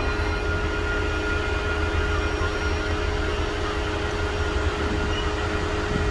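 Steady low rumble of Union Pacific steam locomotive No. 4014 and its train rolling along.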